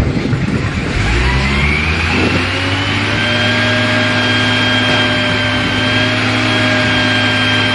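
A machine motor spinning up: its whine rises in pitch for about two seconds, then holds at a steady speed. This is plausibly the spindle of a Kuraki BM-10DX CNC horizontal boring mill coming up to speed.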